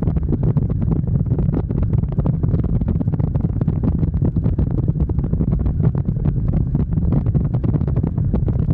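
Wind buffeting the microphone of a camera on a moving motorcycle: a steady, loud low rumble with constant fluttering crackle, likely over the bike's engine and road noise.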